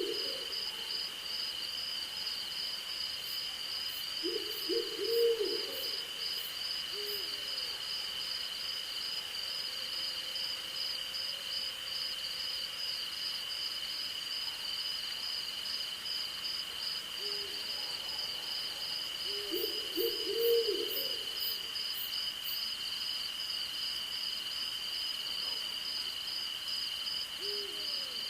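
An owl hooting: two short runs of several low hoots, about four seconds and twenty seconds in, with single hoots between. Under them runs a steady night chorus of crickets and other insects, one with an even high trill and another pulsing fast.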